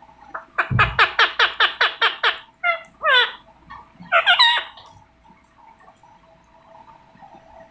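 Indian ringneck parakeet calling: a fast run of about ten sharp screeches, about six a second, followed by a few harsher squawks that fall in pitch.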